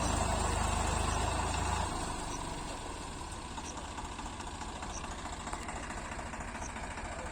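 Tractor diesel engine running, louder at first, then dropping to a lower, steady idle about two seconds in.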